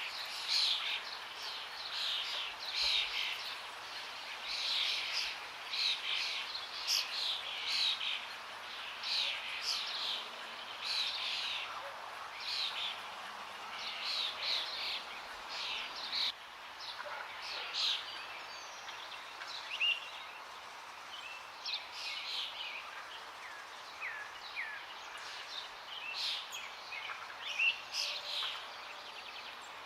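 Several wild songbirds singing and calling in a forest chorus, with many quick chirps and trills, thick at first and thinning out about halfway through, over a steady rush of running water.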